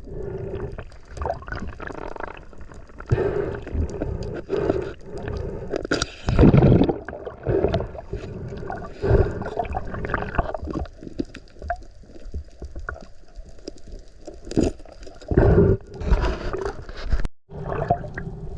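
Water sloshing and gurgling around a camera during a spearfishing dive, coming in uneven bursts, with a brief cut-out near the end.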